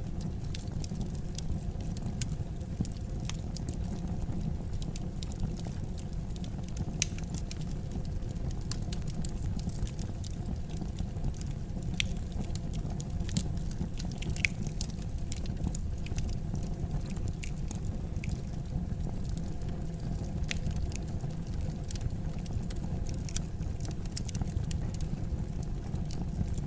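Wood fire burning in a fireplace: a steady low rush of flame with scattered sharp crackles and pops from the burning logs.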